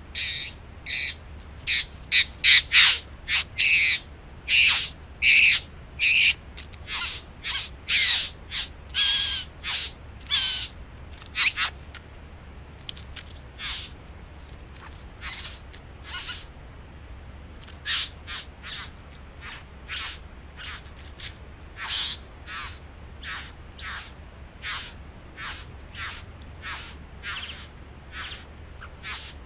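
Bowerbird calling: a long string of short calls, about one or two a second, loudest through the first dozen seconds, then fainter and more evenly spaced.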